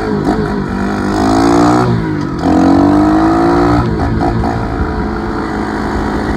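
Dirt bike engine accelerating: it rises in pitch for over a second, breaks off briefly, and climbs again before settling into steadier, lower running.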